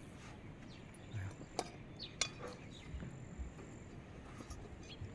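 A few light clinks of kitchen utensils, the sharpest about one and a half and two seconds in, with some soft low knocks over a faint background hiss and a thin, steady high insect-like tone.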